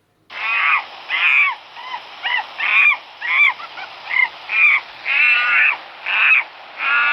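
Monkey calling: about a dozen short calls that rise and fall in pitch, one or two a second, over a steady hiss.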